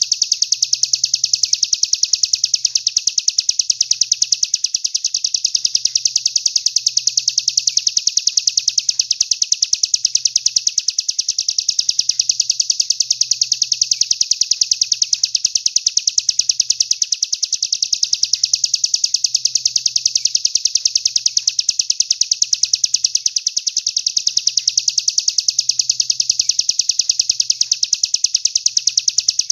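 Songbird recording used as masteran (training song for caged songbirds): a continuous, very rapid high-pitched trill that repeats without pause, swelling slightly every couple of seconds.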